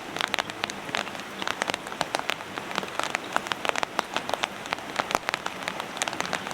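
Heavy rain falling, with many individual drops striking a hard surface in sharp, irregular ticks.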